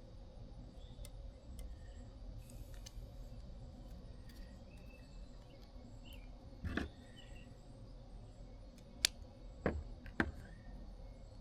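A few small clicks and taps from handling parts and tools at a workbench, four in all in the second half, three of them close together near the end, over a faint steady hum.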